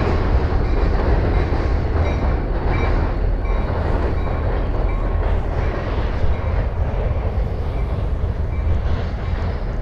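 A short train passing on the tracks: a steady rumble and clatter of wheels on rails that slowly fades.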